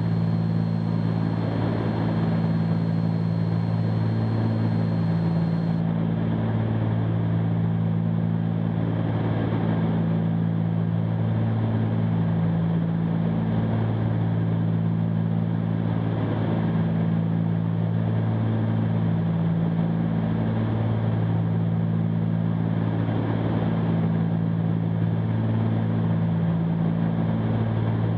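Cabin drone of the Cessna 310Q's two piston engines and propellers in flight, running steadily with a slow, regular swelling and fading every two to three seconds.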